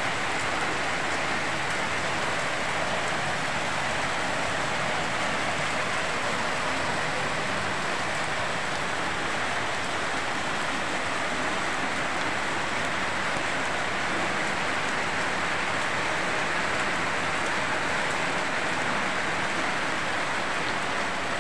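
Heavy rain falling steadily and splashing on wet ground, an even, unbroken hiss.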